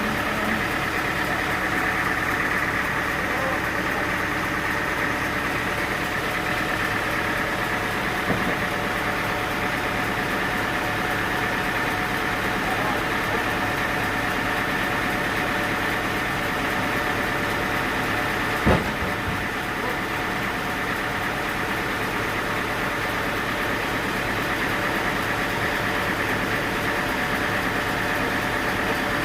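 Sawmill engine running at a steady speed, with one sharp knock about two-thirds of the way through and a fainter one earlier.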